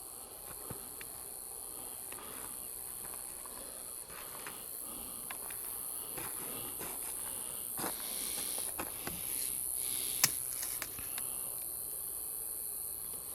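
Night insect chorus of crickets, a continuous high-pitched trill, with scattered rustles and crackles in the undergrowth and one sharp snap about ten seconds in.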